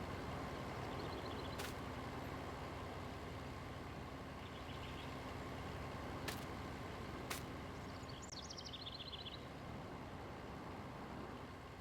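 An engine running steadily at idle, a low even rumble that eases off slightly in the second half, with a few sharp clicks and short bursts of rapid bird chirps over it.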